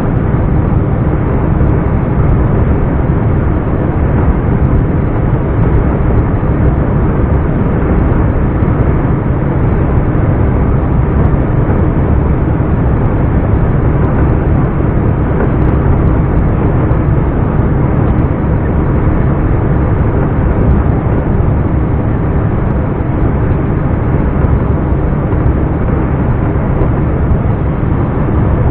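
2007 Scania R420 truck's diesel engine running steadily under way, a low, even drone.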